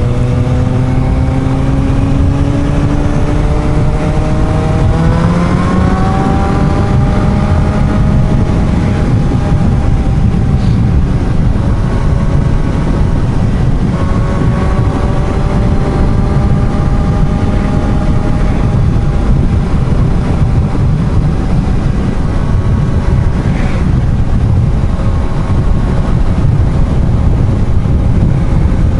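Suzuki GSR750 inline-four motorcycle engine under way beneath heavy wind rush, its pitch climbing slowly as it accelerates over the first several seconds, then dropping at a gear change about fourteen seconds in and pulling on steadily.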